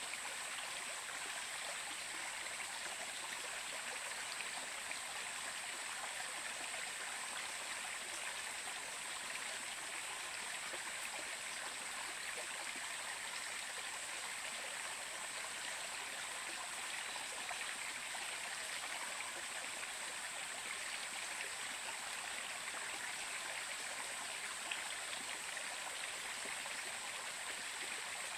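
Running water from a stream, an even, unbroken rush.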